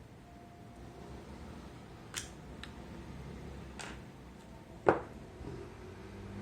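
Hard parts and tools being handled during disassembly: a few sharp clicks, then one louder knock near the end.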